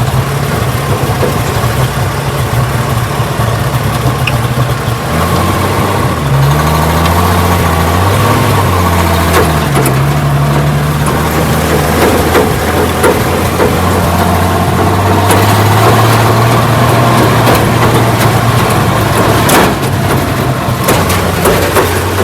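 1968 Ford Bronco's engine running as it is driven over rough ground, its pitch rising and falling as the throttle changes. A few knocks and rattles come near the end.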